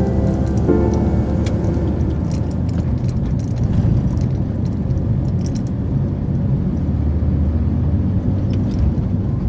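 A truck on the move, with a steady low engine and road rumble and scattered rattling clicks from loose items. Background music fades out about two seconds in.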